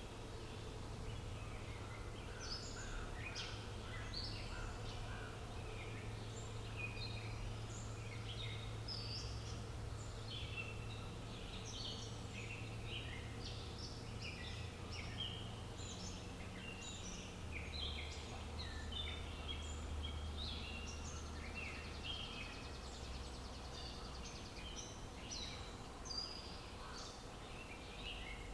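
Many small birds chirping and twittering in a busy, overlapping chorus of short high calls, over a steady low rumble of outdoor background noise.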